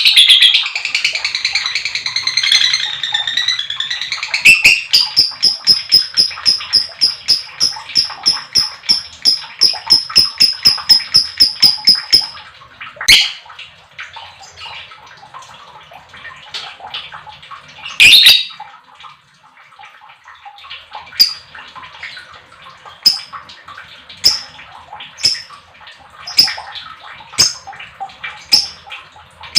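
Lovebird chattering, then a long ngekek: a rapid run of repeated shrill chirps, about four or five a second, lasting around eight seconds. After that come scattered single sharp calls about a second apart.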